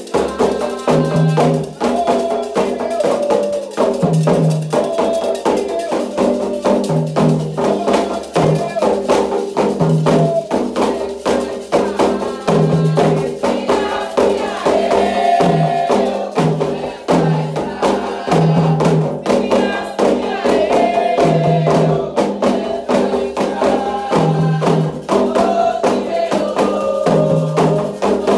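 Candomblé toque for Ogum: atabaque hand drums and a metal agogô bell playing a fast, steady rhythm, with voices singing over it at times.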